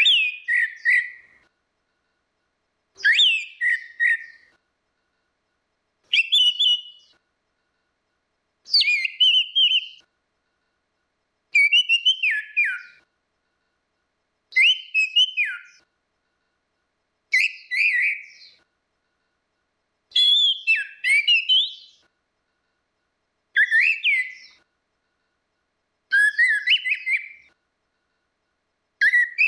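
Orange-headed thrush singing in short, clear whistled phrases of about a second each, with falling slurs, repeated about every three seconds.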